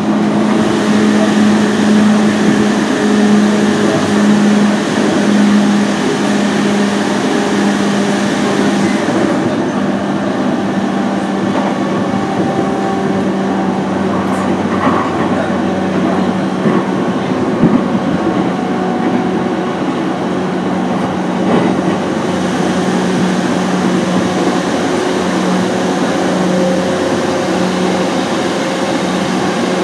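Running sound inside a JR East E233 series 0 electric train on the move: steady wheel-and-rail rumble with a low, pulsing hum. The high hiss thins out about a third of the way in and returns about two-thirds of the way through.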